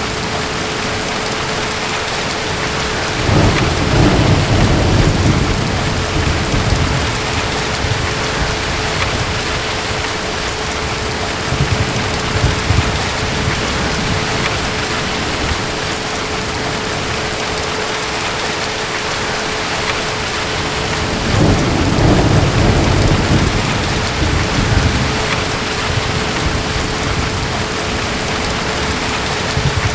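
Steady rain with distant thunder. Low rumbles swell about three seconds in and again about twenty seconds in, each lasting a few seconds, with a fainter rumble in between.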